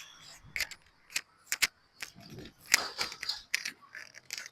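Handling noise on a microphone being refitted: irregular sharp clicks and taps with soft rustling between them.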